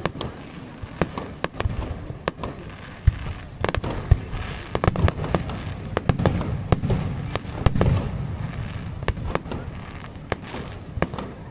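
Aerial fireworks display: many sharp, irregular bangs and crackles over a continuous low rumble of bursting shells, growing denser for a few seconds in the middle.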